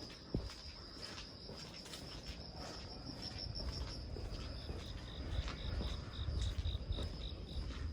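Crickets trilling in a steady high tone, joined about halfway by a second cricket chirping in regular pulses, about four a second, over light rain and scattered drips.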